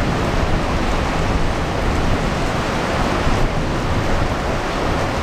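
Hail and heavy rain pelting down, a dense, steady hiss.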